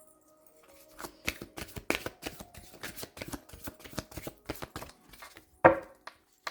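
A deck of divination cards being shuffled by hand: a rapid run of card flicks and clicks starting about a second in, with one louder riffle near the end.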